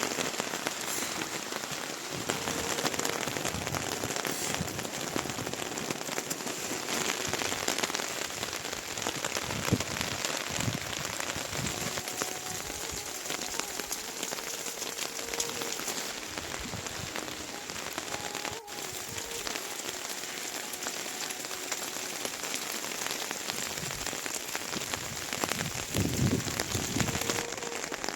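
Steady rain falling, a dense even patter, with a few heavier thuds of drops now and then.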